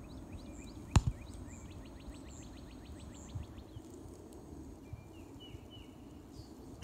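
Outdoor ambience with birds chirping and a fast, evenly ticking trill, and one sharp knock about a second in.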